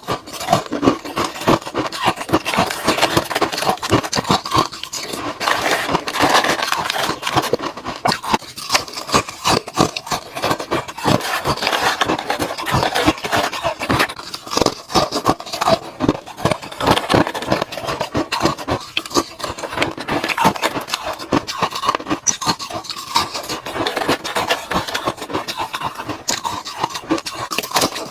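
Ice being bitten and chewed close to the microphone: a loud, continuous run of sharp crunches and cracks, several a second.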